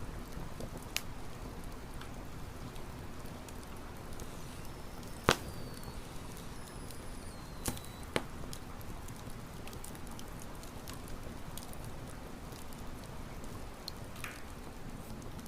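Campfire burning with a steady low rush and scattered small crackles of burning wood, a sharp pop about five seconds in and two more near eight seconds. Faint thin falling whistles come in briefly in the middle.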